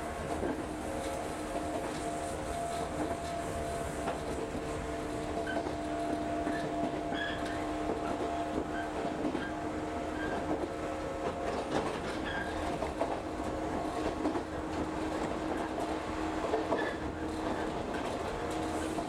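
Shinano Railway Kita-Shinano Line electric train running, heard from inside the passenger car: a steady rumble of wheels on rail with a constant hum of several steady tones, and scattered short high squeaks.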